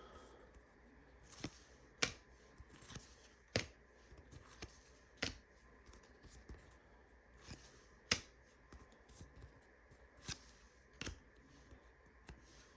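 Trading cards being handled and flipped through one at a time, each card giving a short, sharp click at an uneven pace of about one a second.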